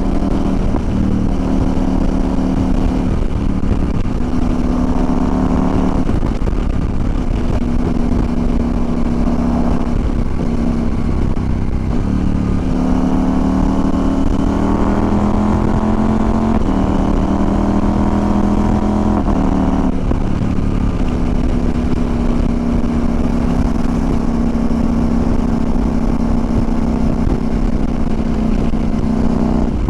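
CFMOTO Ibex 800 (800MT) parallel-twin engine running under way. Its pitch climbs and drops back in steps several times as it is ridden up through the gears, then holds steady at a cruise from about two-thirds of the way through. Low wind rush on the microphone runs underneath.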